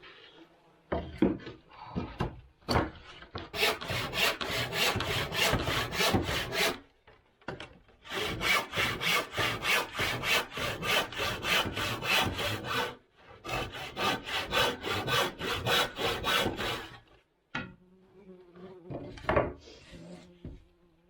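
Hand saw cutting through wood in quick, even back-and-forth strokes. The sawing comes in three runs with short pauses between them, and there are a few separate knocks near the start and the end.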